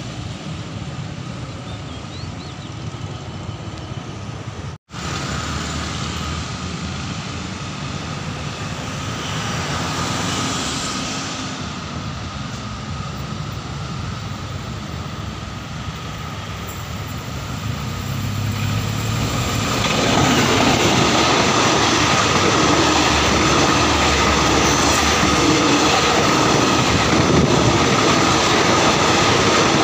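Diesel-hauled passenger train approaching from a distance, then its coaches rolling past close by, much louder from about two-thirds of the way through. The sound cuts out for an instant about five seconds in.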